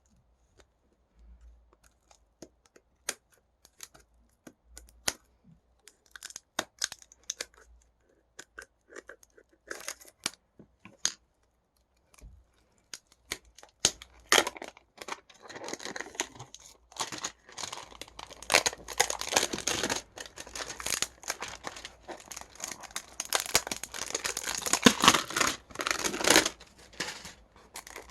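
Photo card packaging being handled and opened by hand: scattered clicks and short rustles at first, then from about halfway a long stretch of tearing and crinkling of the wrapping.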